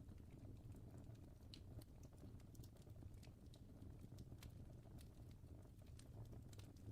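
Fire crackling faintly: irregular small pops and snaps over a low steady rumble.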